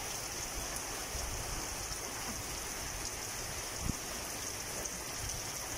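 Heavy rain falling steadily on leaves and wet ground, an even, unbroken hiss.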